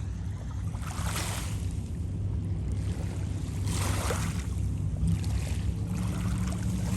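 Lake water lapping at the shore, with a few soft swells of splashing about a second in and again around four and five and a half seconds, over a steady low hum.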